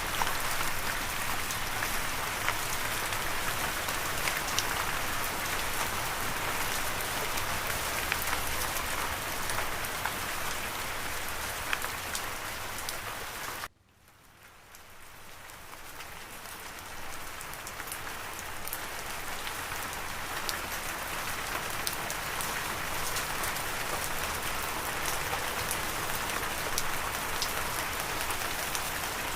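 Steady rain falling, with individual drops ticking through the hiss. About halfway through it cuts out abruptly, then fades back in over a few seconds.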